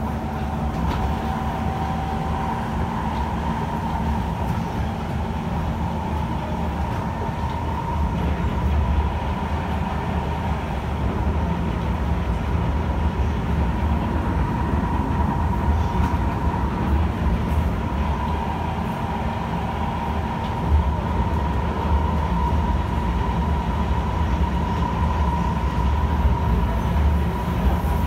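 Kawasaki C151 electric multiple-unit train running along the line: a steady low rumble of wheels on rails with a constant high whine, and a few brief louder knocks.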